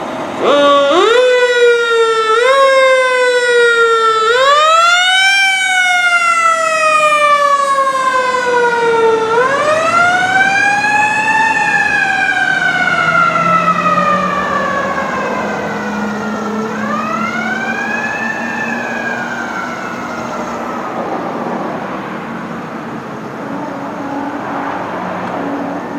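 B&M Superchief mechanical siren on a fire engine, wound up again and again: each time the pitch climbs quickly and then slowly coasts down, first in short rapid pulses, then in longer wails. It grows fainter as the truck moves away.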